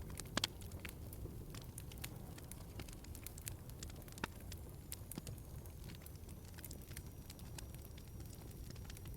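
Log fire in a fireplace crackling: scattered sharp pops and snaps over a steady low rumble of the flames, with a couple of louder pops about half a second in.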